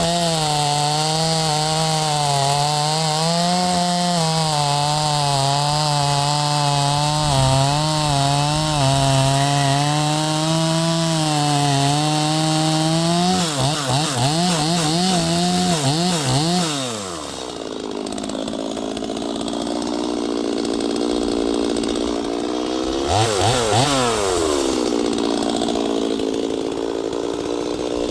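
Neotec NS846 chainsaw, a 45.4cc two-stroke Stihl MS 250 clone, running at high revs cutting gum wood for about the first half, its pitch wavering under load. It then revs up and down a few times and drops to idle, with one short blip of the throttle later on.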